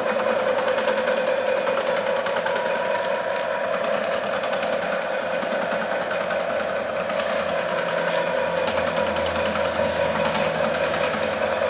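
Electric-motor-driven ice cream churn running steadily, with a constant hum and a fast, even rattle.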